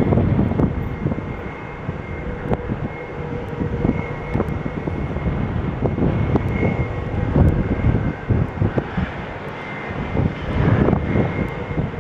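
Airplane engines running, a steady high whine held over an uneven low rumble.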